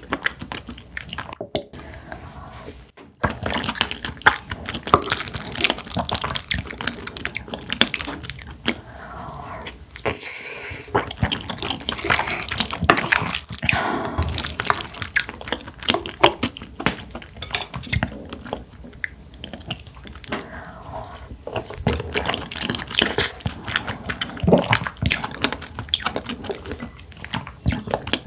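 Close-miked eating sounds: irregular wet chewing, smacking and slurping of fish and rice.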